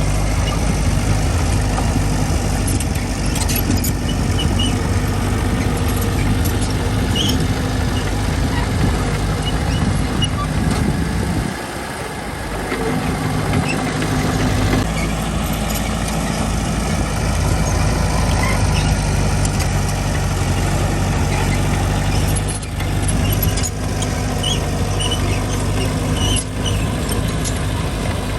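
Diesel engine of heavy earth-moving machinery running steadily, with a brief dip in level about twelve seconds in and scattered small clicks over it.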